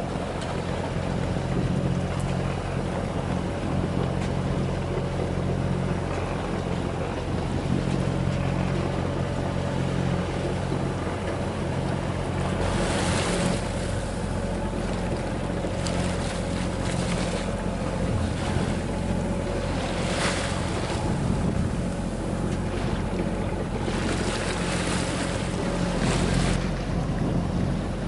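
A small sailboat's inboard engine running steadily at sea, under wind on the microphone and waves washing past the hull. The rushing of wind and water swells several times.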